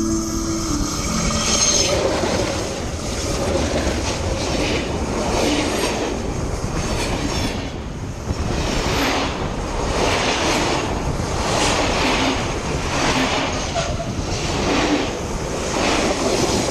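Garratt articulated steam locomotive working along the line, a steady rhythm of exhaust beats about one and a half a second over the noise of the train running on the rails.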